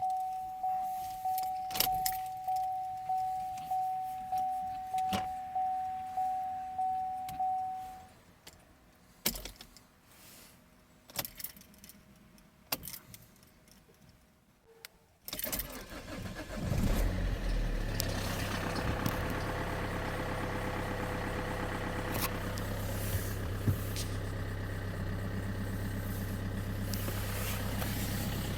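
A car's warning chime pings about twice a second and stops about eight seconds in, followed by a few sharp clicks. About fifteen seconds in, the Opel Insignia's 2.0 CDTI diesel engine cranks, starts and settles into a steady idle.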